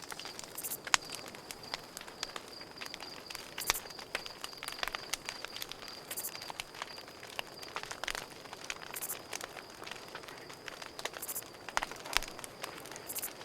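Campfire crackling, with irregular sharp pops of burning wood over a soft hiss. A cricket trills steadily in the background, and a short high insect buzz comes back every two to three seconds.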